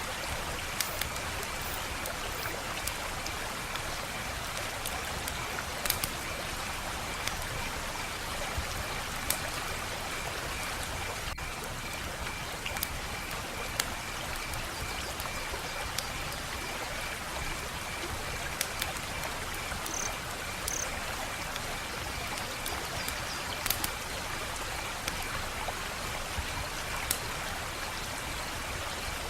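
Wood fire crackling: a steady hiss with sharp pops and snaps scattered every second or two. A faint, evenly pulsing high trill runs underneath.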